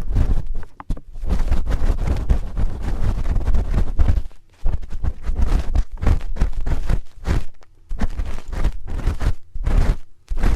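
A spoon scraping and rubbing right against the microphone's ear, a close crackling with a deep rumble, in strokes broken by a few short pauses.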